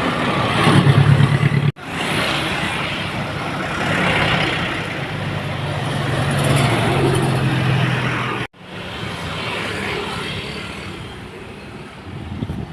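Heavily loaded dump trucks passing on a wet road: diesel engines running under load with tyre noise, swelling and fading as each truck goes by. The sound cuts out abruptly twice, once early on and once about two-thirds through.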